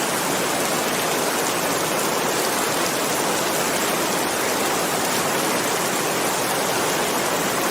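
Steady rainfall, an even dense hiss of falling rain without any thunderclap.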